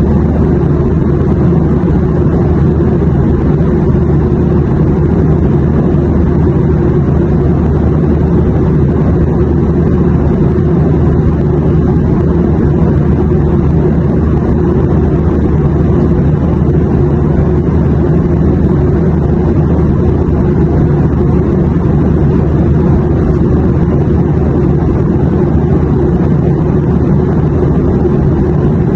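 Steady, even rumble of airliner cabin noise in flight, engine and airflow noise heavy in the low end, with no change throughout.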